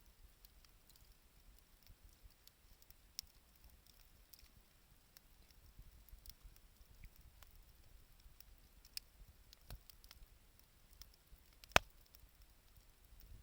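Wood fire crackling faintly, with scattered sharp pops. The loudest pop comes near the end.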